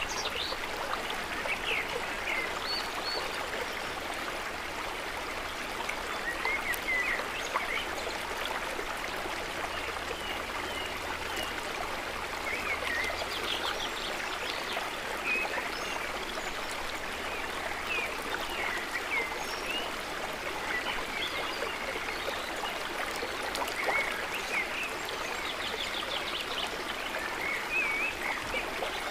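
Small water trickling and babbling steadily, the gentle sound of calm lake water, with short high chirps scattered throughout and a quick high trill near the end.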